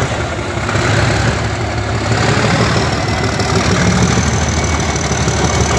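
Class 37 diesel locomotive's English Electric V12 engine running steadily at idle, a deep rumble, with a faint high whine joining about halfway through.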